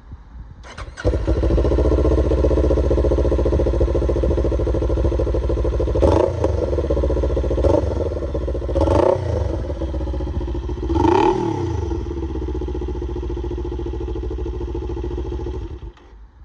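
Kawasaki Ninja 400's parallel-twin engine breathing through an aftermarket Waterwich slip-on muffler with its baffle in, starting about a second in and idling. It is blipped four times in quick revs before it shuts off near the end.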